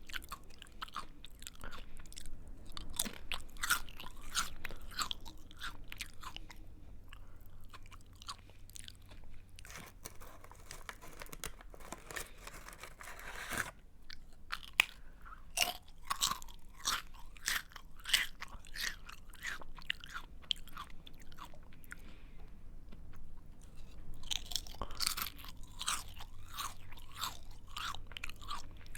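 A person chewing a crunchy snack close to the microphone: crisp crunches in bouts, with quieter pauses between.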